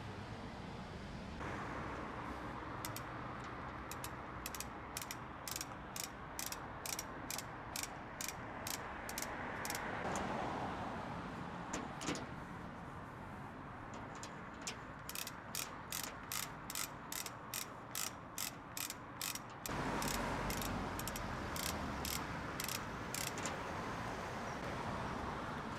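Ratchet of a hand-operated hoist clicking in steady runs of about two to three clicks a second, with short pauses between runs, as it is worked to lift a heavy load.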